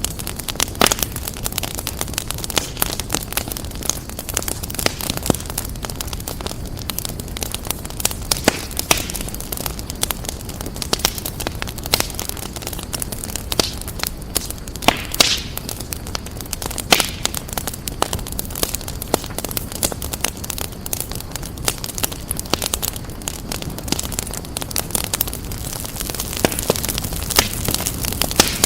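Wood fire burning in a fireplace, crackling steadily, with irregular sharp pops and snaps over a low rumble.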